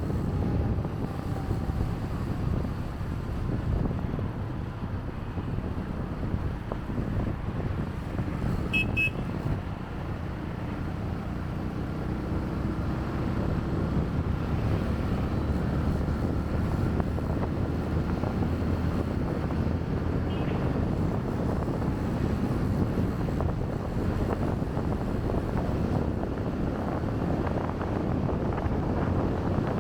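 Wind buffeting the microphone on a moving motorbike, over the steady rumble of the bike and road traffic. A brief high beeping about nine seconds in.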